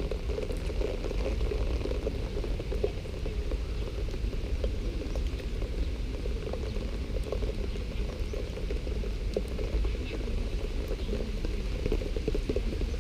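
Heavy rain falling steadily, a dense even crackle of many drops striking close by.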